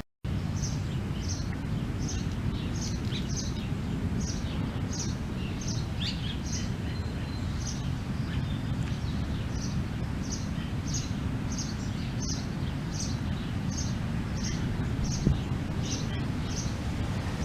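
A small bird chirping over and over, short high chirps about twice a second, with a few lower sliding notes mixed in, over a steady low background rumble.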